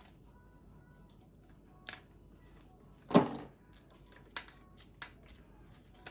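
Scattered small clicks and knocks from a replacement mains plug and a screwdriver being handled while the cord's wires are connected to the terminals, with one louder thunk about three seconds in.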